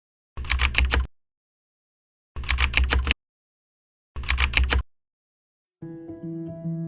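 Three short bursts of rapid clicking, each under a second and made of several sharp clicks, separated by silence. Soft music starts near the end.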